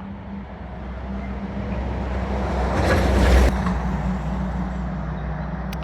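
A motor vehicle passing close by on the road, growing louder to a peak about three seconds in and then fading, over a steady low engine hum.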